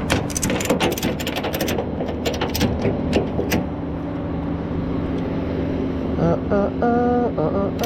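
Tow truck engine running with a steady low hum. A quick run of sharp clicks and rattles fills the first few seconds, and a few short, steady high tones come near the end.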